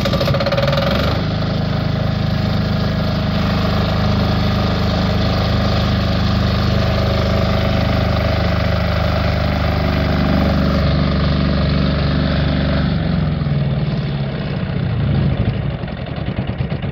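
Wen D6000 generator's single-cylinder diesel engine running steadily just after starting, then slowing about thirteen seconds in and running unevenly near the end as it winds down, the throttle pulled back so the engine stops on its own.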